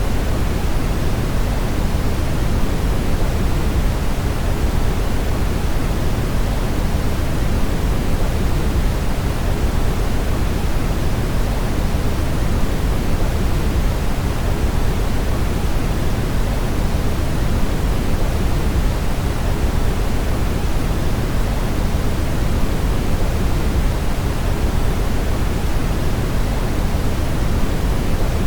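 Brown noise: a steady, even rush with its weight in the low end and little hiss up top, unchanging throughout.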